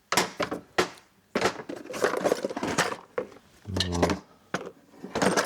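Metal tools and bits clinking and clattering as they are rummaged through while a tool of the right size is searched for, with a dense run of clatter in the middle.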